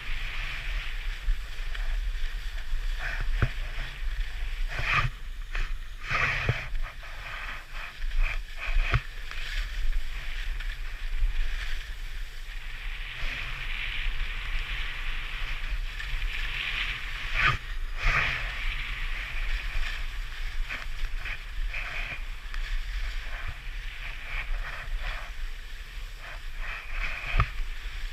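Skis scraping and hissing over snow on a downhill run, swelling and fading in surges with sharper scrapes now and then, over a steady low rumble of wind on the microphone.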